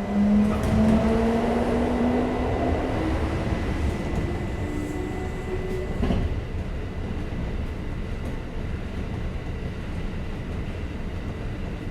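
Kintetsu 5800 series electric train heard from inside a car, running through a tunnel. Its traction motors whine, rising gently in pitch for the first few seconds, then fade into a steady rumble of wheels and running noise. There is a single sharp click about six seconds in.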